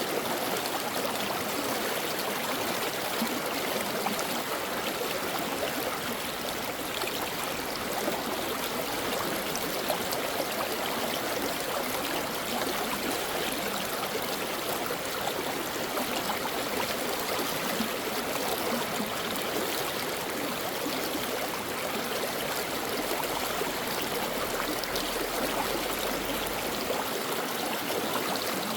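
A brook running steadily, its water rushing and babbling without pause.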